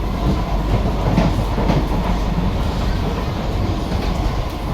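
SMRT C151B metro train running between stations, heard from inside the car: a steady rumble of wheels on rail with a faint steady tone and a few light clicks.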